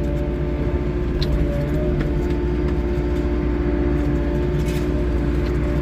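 Wheeled excavator's diesel engine running steadily under work, a constant low rumble with a steady hum over it and a few faint clicks.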